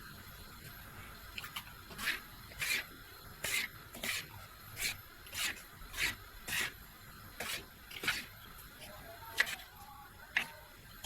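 Rhythmic rubbing strokes, about one and a half a second, followed by two sharp clicks near the end.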